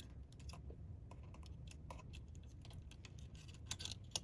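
Faint, scattered light clicks and taps of small parts being handled inside an opened laptop as the logic board and its cables are fitted back in, with a brief flurry of louder clicks near the end.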